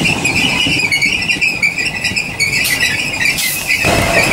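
Class 313 electric train running past at close range, its wheels squealing in a wavering high tone over the rumble of the train. The sound underneath changes suddenly near the end.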